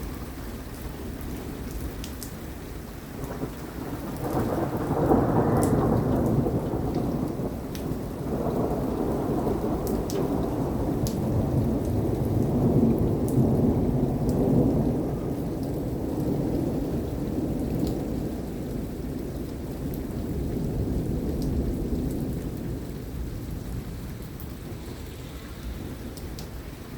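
Long rolling thunder rumble that builds about four seconds in and slowly fades over some twenty seconds, over steady rain with scattered drop ticks.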